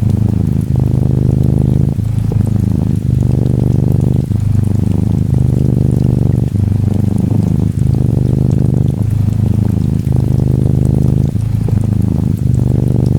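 Norwegian Forest Cat kitten purring steadily, the purr breaking briefly about every second with each breath, over a faint patter of gentle rain.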